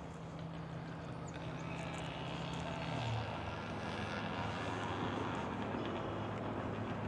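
A distant engine humming steadily, its pitch dropping about three seconds in, while a broad rush of noise swells under it.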